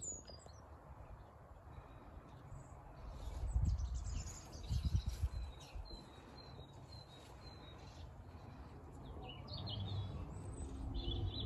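Small birds chirping in a garden, a run of short high chirps through the middle, over faint outdoor background noise. Two low rumbles come about four and five seconds in.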